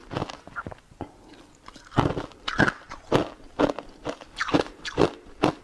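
A person biting and chewing something crunchy close to the microphone, with repeated sharp crunches about every half second.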